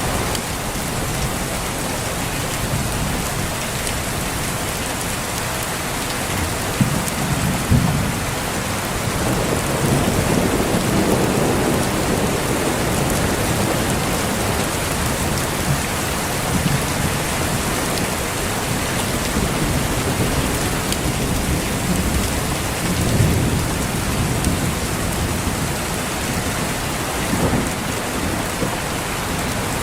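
Steady heavy rain with low rolls of thunder: a sharp crack and rumble about seven seconds in, a longer rumble just after, and another roll about two-thirds of the way through.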